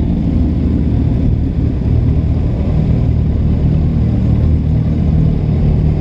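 Motorcycle engine running at low, steady revs, a continuous low rumble whose pitch rises slightly about halfway through.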